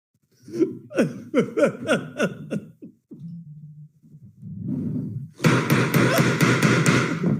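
People laughing hard, in rapid falling "ha" syllables, then a low hum. From about five and a half seconds in the laughter grows louder and more raucous, with sharp slaps or claps.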